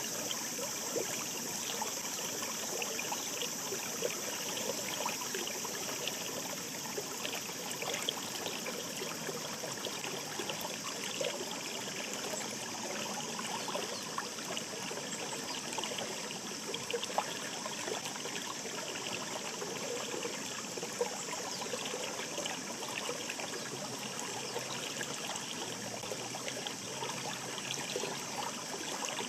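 Mountain stream babbling steadily: an even rush of flowing water with many small splashes and trickles.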